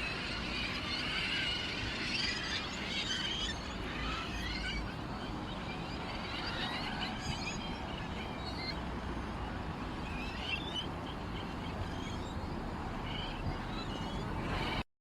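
Many small songbirds chirping and twittering, densest in the first four seconds and more scattered after, over a steady background hiss.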